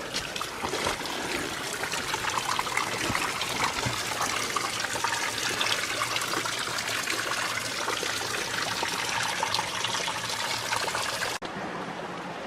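Creek water splashing steadily over a small waterfall, with a fine crackle of drops; after a cut about eleven seconds in, the flow is slightly quieter.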